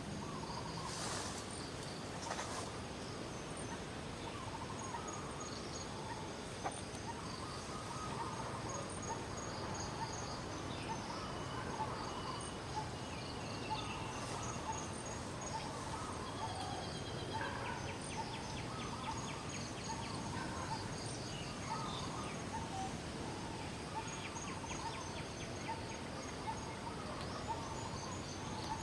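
Natural outdoor ambience: many short chirping calls over insects trilling and a steady background hiss.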